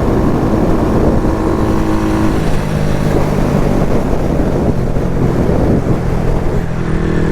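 Honda Grom's small single-cylinder engine running as it is ridden, its note dropping about two and a half seconds in, with strong wind buffeting the microphone.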